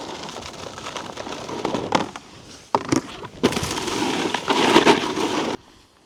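Snowboard edges and base scraping and chattering over icy, slushy snow, with a few sharp knocks. A long, louder scrape comes in the second half and cuts off suddenly near the end.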